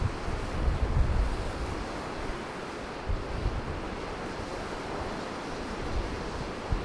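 Wind buffeting the microphone in gusts over a steady rushing of water. The gusts are strongest in the first second or so and return briefly near the end.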